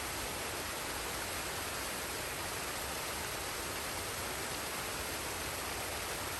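Forest waterfall and stream water rushing, a steady, even hiss of falling and flowing water.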